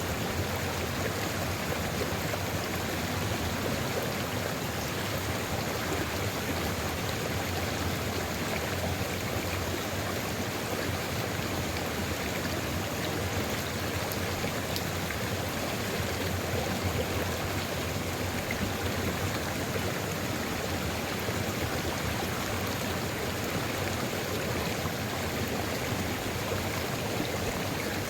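Sulfur river water flowing steadily over rocks, a continuous rushing and splashing with fine droplet detail.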